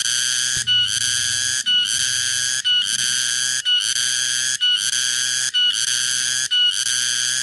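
Cicada (tonggeret) calling: a loud, steady buzz broken by a brief gap about once a second.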